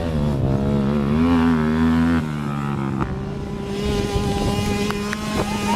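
Dirt bike engines revving, the pitch wavering up and down, then settling to a steadier note about three seconds in.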